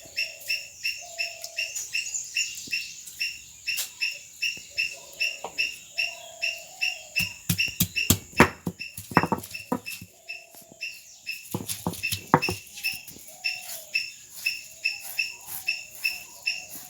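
A bird chirping a short, high call over and over at an even pace, about three times a second, with a few sharp clicks or knocks in between.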